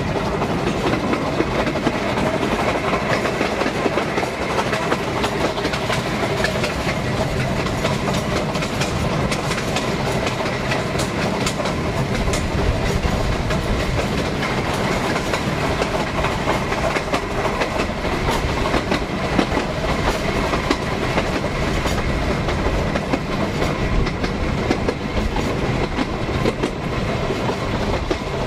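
Narrow-gauge steam railway carriage running steadily along the line, heard from on board: continuous running noise of the wheels on the rails, with frequent short clicks throughout.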